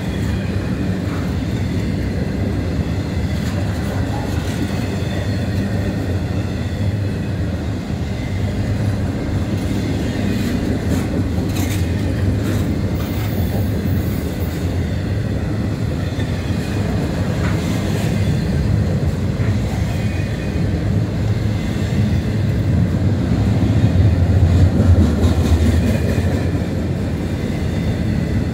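Double-stack intermodal freight cars rolling past: a steady low rumble of steel wheels on rail, with a few clicks about halfway through. It swells louder for a few seconds near the end.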